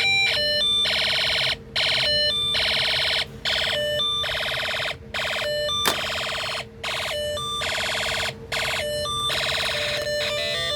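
Snap Circuits electronic kit sounding through its speaker: a weird, siren-like electronic warble of quickly stepping tones. It cuts out briefly about every one and a half to two seconds, over a steady underlying tone, with a single click about six seconds in.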